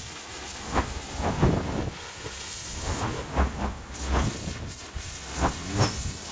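Pressure washer jet spraying water on a moss-covered roof: a steady hiss with uneven louder bursts and low thuds.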